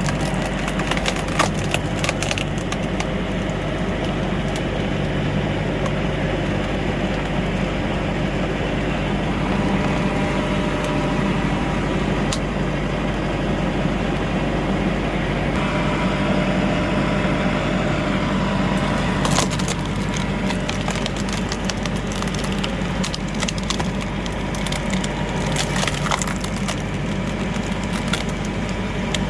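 Tractor engine running steadily, driving a screw (cone) log splitter, with sharp crackling and cracking of wood as the threaded cone bores into a log and splits it. The cracks come mostly near the start and through the last ten seconds.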